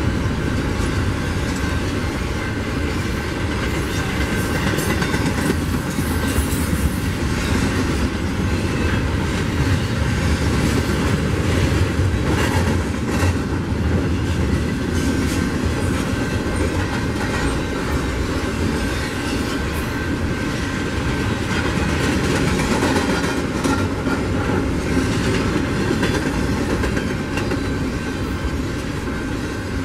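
BNSF double-stack container train rolling past on well cars, a steady rumble with wheels clacking over rail joints.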